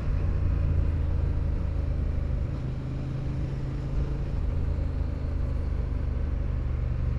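Motorcycle engine running steadily at road speed, with a constant rush of wind and road noise over it.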